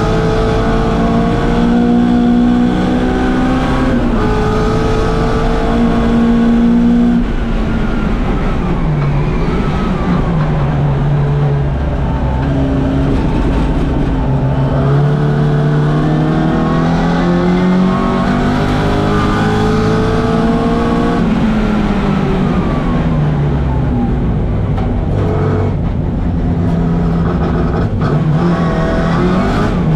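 1964 Mini Cooper S race car's A-series four-cylinder engine at full throttle, its pitch climbing through the revs and dropping suddenly at each upshift. About eight seconds in the revs fall away for a couple of seconds, then climb through the gears again.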